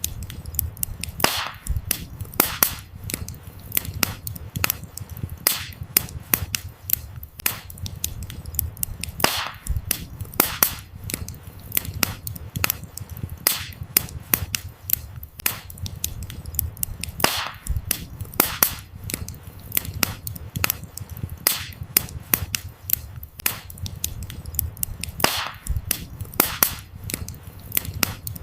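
Wood fire crackling: a dense, irregular run of sharp pops and snaps from burning firewood over a low, steady rumble of the flames.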